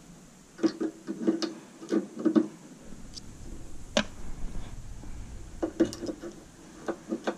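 Small screws and metal parts clicking and clinking as they are handled and worked loose from a stainless steel steamer door. The light taps come irregularly, with one sharp click about four seconds in.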